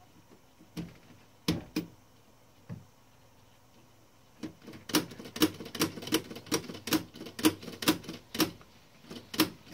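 1912 Mercedes No. 3 typewriter's key and typebar mechanism being worked. A few scattered metal clicks come first, then from about four and a half seconds a quick, even run of sharp clacks, about two to three a second, as the newly fitted A key is set and worked.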